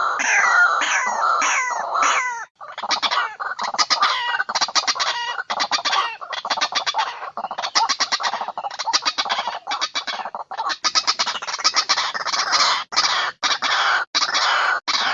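Recorded lure call of white-breasted waterhens (ruwak-ruwak). It opens with a run of falling notes, about three a second, then after a brief break comes a long stretch of rapid, pulsing repeated calls in bouts separated by short pauses.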